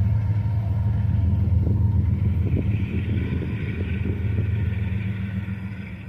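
Loaded coal freight train moving past with a steady low rumble. A higher hiss joins about two seconds in, and the sound fades over the last couple of seconds as the train draws away.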